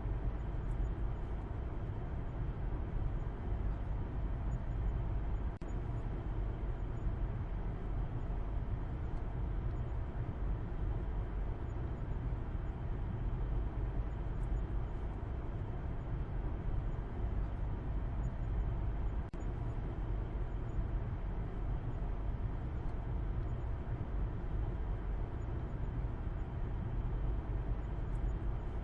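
Steady low rumble of a car driving at an even speed: continuous road and engine noise, strongest in the bass, with no change in pace.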